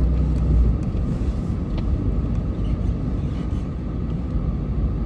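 Snowplow pickup truck's engine running, a steady low rumble that is loudest in the first second, with a few faint clicks.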